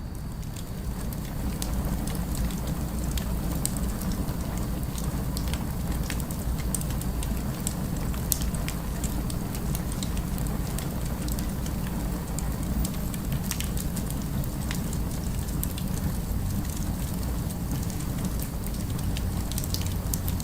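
Crackling fire: irregular sharp pops and snaps over a steady low rumble of city ambience.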